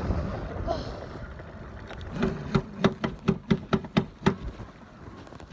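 Dirt bike engine sputtering as it is being started: a run of about nine uneven firing pulses, roughly four a second, that stops after a couple of seconds. The bike is acting up.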